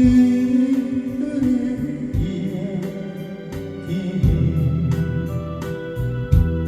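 A cover of a Korean ballad: singing over guitar and keyboard accompaniment, opening on a long held note.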